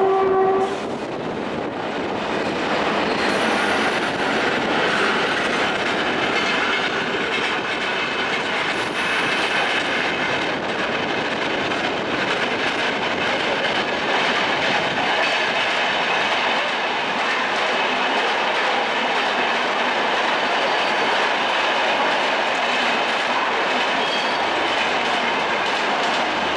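A train horn cutting off just after the start, then the steady rumble and clatter of train wheels on rails as a suburban EMU runs into the station and an express's LHB coaches pass on the next track, with brief high-pitched wheel squeals.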